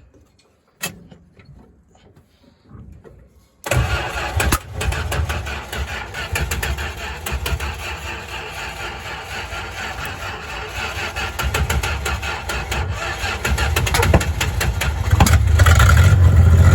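1987 Dodge Dakota derby truck's engine starting suddenly about four seconds in, after a few faint clicks. It keeps running with a lot of irregular clatter and ticking, and revs up louder near the end.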